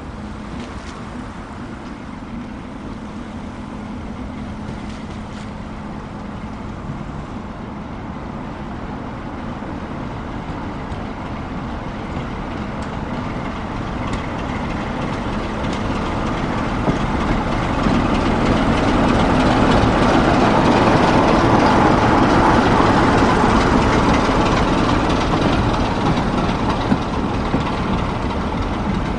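Train passing, growing steadily louder to a peak about two-thirds of the way through and then fading a little.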